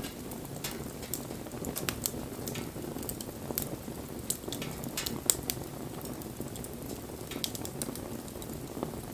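Wood campfire burning: a steady low rush of flames with frequent sharp crackles and pops, the loudest pop about five seconds in.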